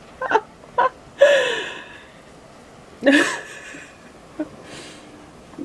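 A person's wordless breathy shouts or laughs: two quick ones, then two longer ones about a second in and about three seconds in, each falling in pitch.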